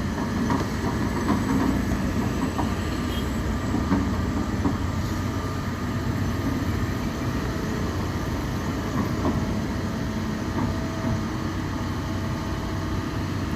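Heavy diesel engine running steadily at a low, even pitch, with faint rattles and clicks over it.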